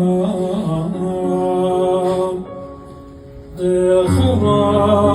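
A man's voice chanting a liturgical prayer in long held, melismatic notes. It breaks off briefly about halfway, then resumes with a low steady drone beneath it.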